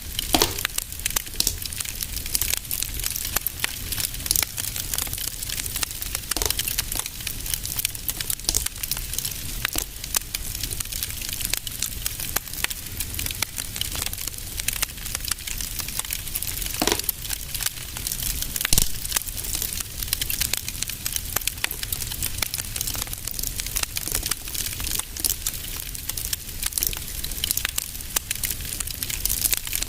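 Wood fire burning in a fireplace, with a steady hiss and rumble under dense, irregular crackling and a few louder pops.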